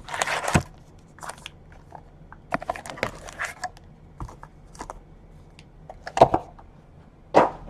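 Trading-card pack wrappers and cards being handled: short, scattered crinkles, rustles and clicks.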